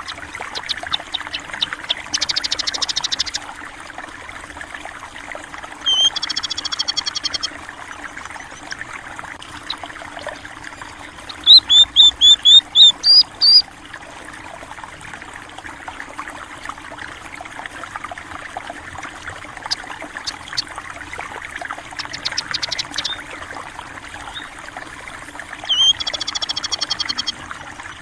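Water trickling steadily in a small stream, with small birds calling over it: several quick high trills and, in the middle, a run of about eight loud sharp chirps.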